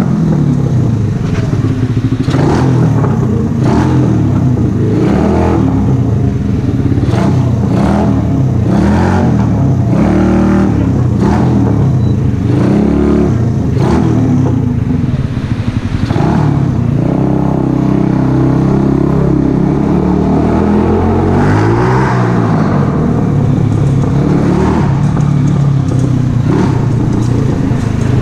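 Mash Café Racer 125cc single-cylinder four-stroke engine breathing through an aftermarket Megaton exhaust, revving up and falling back repeatedly. The pitch climbs in steps several times, with a steadier stretch about two-thirds of the way in.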